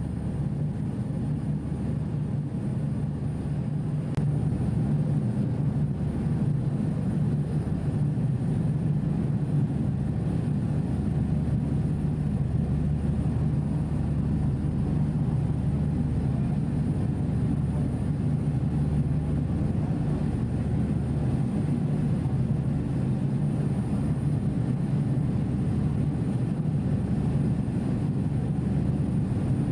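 Steady low drone of a passenger ferry's engines, heard on board, growing slightly louder about four seconds in.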